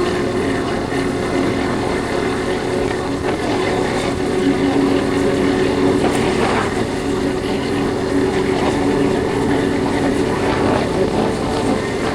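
Yamaha Factor 150 motorcycle's single-cylinder four-stroke engine running at a steady cruise, with wind noise from riding.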